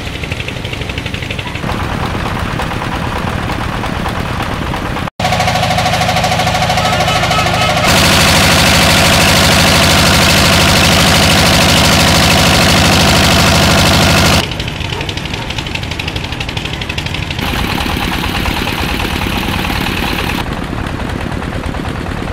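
An engine running steadily, heard in several spliced stretches whose loudness and tone change abruptly, with a brief dropout about five seconds in.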